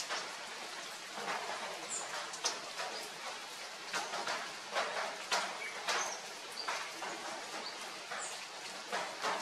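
Steady rain, with drops pattering and dripping close by. A few short, high bird chirps come through now and then.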